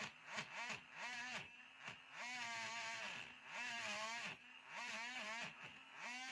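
A hand file rasping back and forth over a basswood shaving handle as it is shaped. There are about three strokes a second, each one's pitch rising and falling with the stroke, and two longer, slower strokes in the middle.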